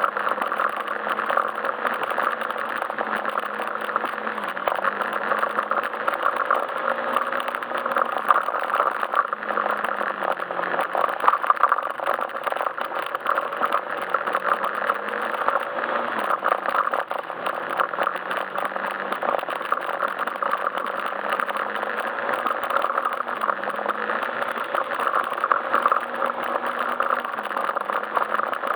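Yamaha Majesty S scooter's single-cylinder engine running on the move at a steady, slightly wavering pitch, under a constant rush of road and wind noise.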